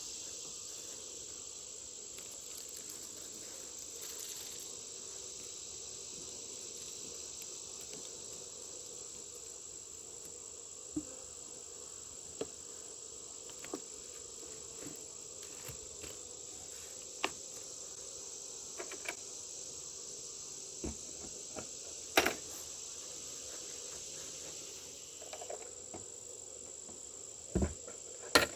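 Steady, high-pitched insect chorus running throughout, with scattered sharp clicks and knocks, two louder knocks near the end.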